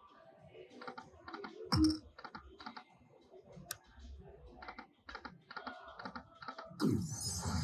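Lightning Link slot machine sounds: a quick run of clicks, about four or five a second, as the reels spin and stop, with one louder thump about two seconds in. A louder machine jingle starts near the end.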